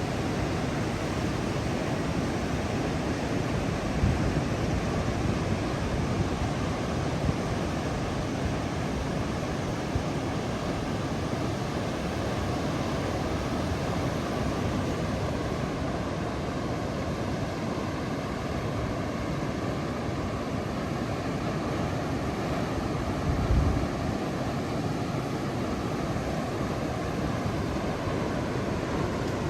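Steady rushing surf of Indian Ocean waves, with wind on the microphone that gives two brief low buffets, one about four seconds in and another near the end.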